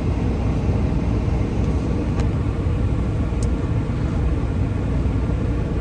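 Gale-force wind buffeting a parked car, heard from inside the cabin as a steady low rumble. Two faint ticks come about two and three and a half seconds in.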